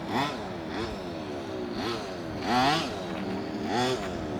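Zenoah G230RC 23cc two-stroke engine of an FG Marder 1/6-scale RC buggy, revving up sharply and easing off about four times as the car is driven.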